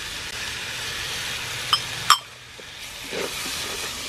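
Onion-and-spice masala sizzling with a steady hiss in a clay pot as chopped tomatoes drop in. About halfway a sharp click comes and the sizzle falls away suddenly. Near the end a wooden spoon scrapes and stirs through the mix.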